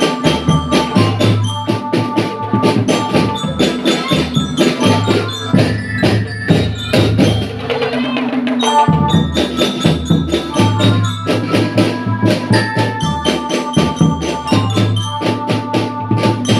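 A school marching drum band playing: snare and bass drums keep a steady beat under a bell-like melody of the kind a bell lyre plays. The low drums drop out briefly about eight seconds in, then the full band comes back in.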